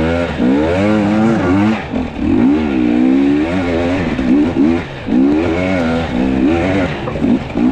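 Two-stroke enduro dirt bike engine revving up and down over and over as the rider fights the bike along a rut.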